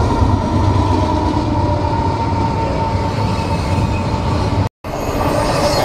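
A train passing close by: a steady heavy rumble of wheels on rail, with a thin whine that fades over the first couple of seconds. The sound drops out for a moment near the end, then resumes.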